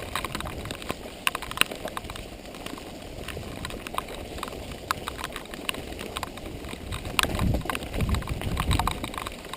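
Mountain bike rolling over a rough dirt trail: a steady run of irregular rattling clicks and knocks from the tyres, chain and frame on stones, over a low rumble that grows near the end.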